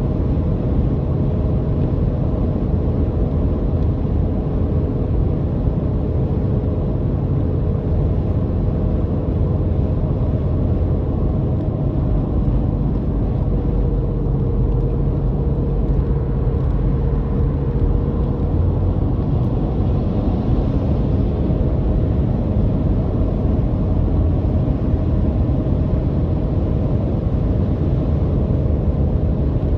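Steady drone of a car driving at an even pace, a low rumble of motor and road noise with a few faint steady tones and no change in pitch or level.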